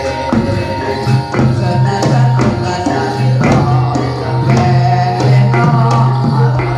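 Jathilan (kuda lumping) accompaniment music: drums beat a steady rhythm under ringing tuned-metal percussion, over a sustained low tone.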